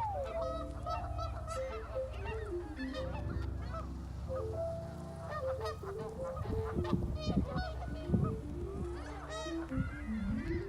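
A flock of birds calling, with many short calls overlapping. Background music plays a stepping melody underneath.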